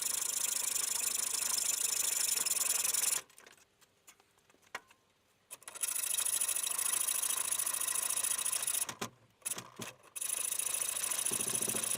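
Wood being worked with an abrasive tool: a scratchy rubbing noise in three long runs, stopping for about two seconds a little over three seconds in and again briefly near nine seconds.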